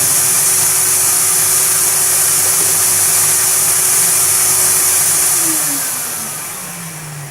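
Vacuum cleaner motor running steadily with a loud airy hiss, then switched off about five and a half seconds in, its pitch falling as it winds down.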